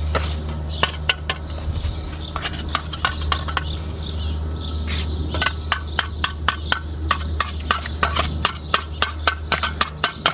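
Stones knocking and clicking against each other as they are packed around a post set in wet cement: a fast, irregular run of sharp knocks, thickest in the second half, over a steady low rumble.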